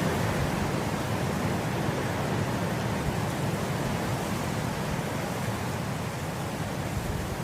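Wind blowing through swaying grass, a steady, even rushing that eases slightly in the second half.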